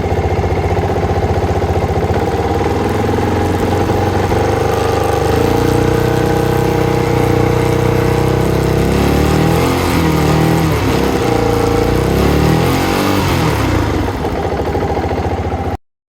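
Yamaha R15's single-cylinder motorcycle engine running steadily, then revved up and down several times from about nine seconds in; the sound cuts off abruptly near the end.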